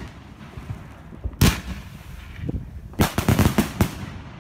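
Aerial fireworks exploding: a single loud bang about a second and a half in, then a rapid string of bangs about a second later, with rumble between.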